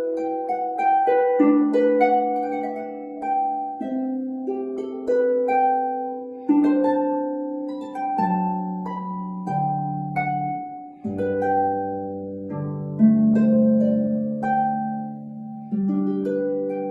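Solo harp playing a slow passage of plucked notes and rolled chords that ring and decay, with deep bass strings joining about eleven seconds in; the last chord is left to ring and fade.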